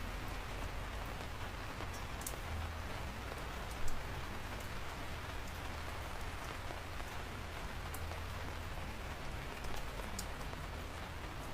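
Steady rain falling, an even hiss, with a few sharp close drops striking now and then, the loudest about four seconds in.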